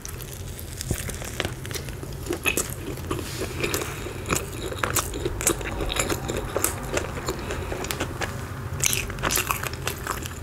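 Close-miked chewing of a bite of a KFC fried chicken sandwich: irregular crunches of the breaded fillet and soft mouth clicks.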